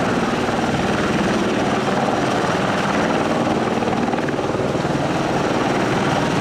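Military helicopter flying close, its rotor beating in a rapid, steady chop.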